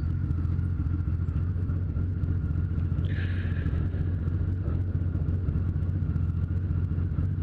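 Motorcycle engine idling steadily, with a short hiss about three seconds in.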